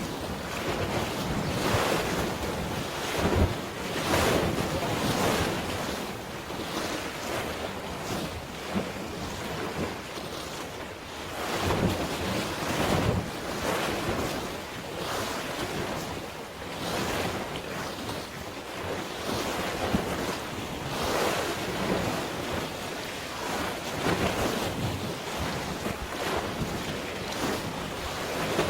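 Sea waves washing and splashing in irregular surges every second or two, with wind buffeting the microphone.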